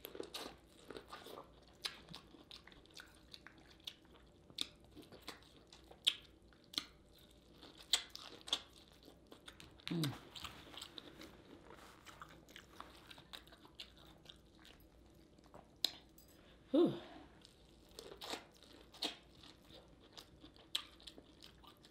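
Close-up wet chewing and biting of sauce-covered corn on the cob, with many sharp little clicks and smacks scattered irregularly throughout. Twice there is a short falling hum of voice.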